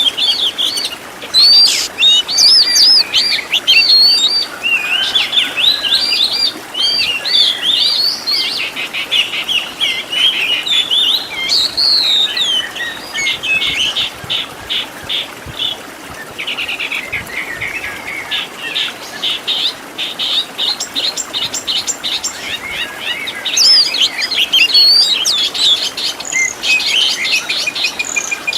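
Oriental magpie-robin (kacer) singing continuously, a varied 'isian' song of quick looping whistles broken by fast trilled runs, as used for training cage birds.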